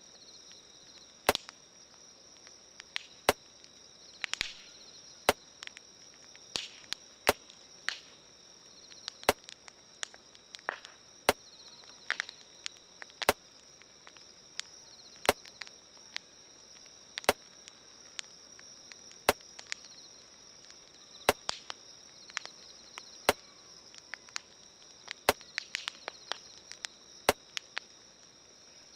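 Campfire crackling and popping: wood snapping in irregular sharp cracks, with a louder click repeating evenly about every two seconds. A steady high-pitched drone runs behind it.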